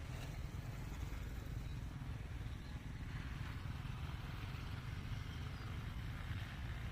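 A steady low rumble with faint, indistinct voices in the background.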